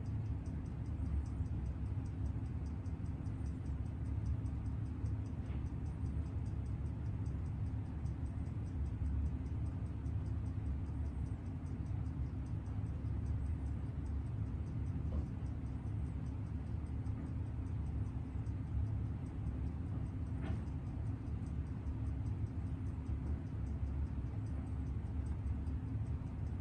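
Seiko 6138 automatic chronograph movement ticking rapidly and evenly at about six beats a second, the balance of a freshly rebuilt movement running in on a timegrapher. A steady low hum sits underneath.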